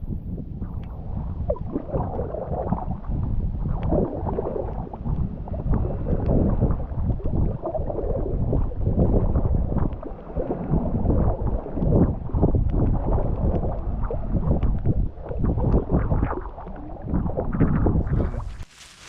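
Strong wind buffeting the microphone in uneven gusts, with water sloshing and gurgling. It cuts off suddenly near the end.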